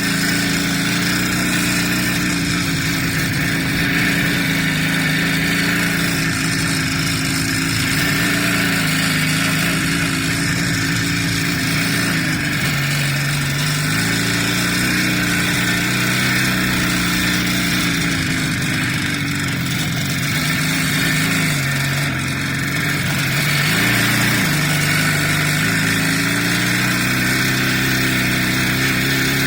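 A motor vehicle engine running steadily under way. Its pitch drops and climbs back a few times.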